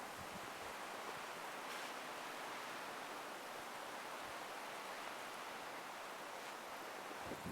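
Strong wind blowing over snow, a steady even hiss.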